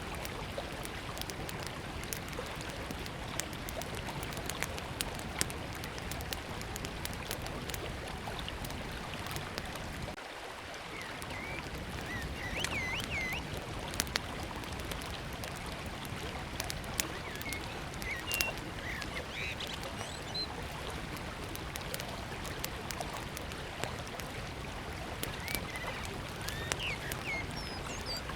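Small wood fire crackling with scattered sharp pops over the steady rush of flowing river water. From about a third of the way in, a small bird chirps in short twittering phrases.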